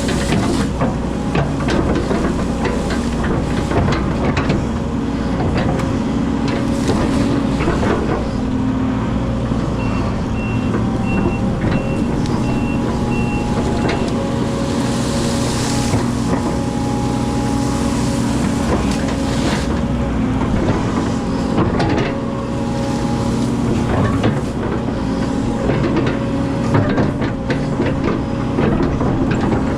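Excavator's diesel engine running steadily under working load, with scattered knocks from the machine at work. About ten seconds in, a warning alarm gives a row of about six evenly spaced beeps.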